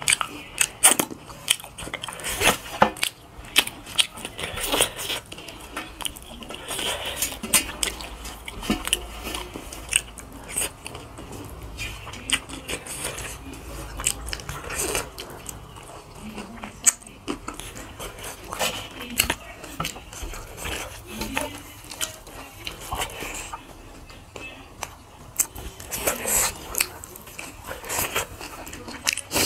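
Close-up eating sounds of two people chewing rice and meat: wet chewing and lip smacks with many irregular sharp clicks.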